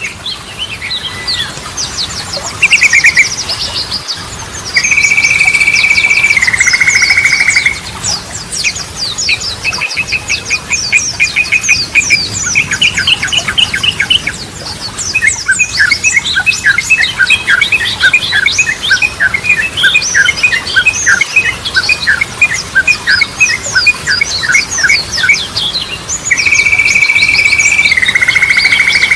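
Yellow-vented bulbul singing: twice a long held whistle steps down to a lower note, with a fast ticking run and a long string of rapid notes between them. Other small birds chirp high and fast behind it throughout.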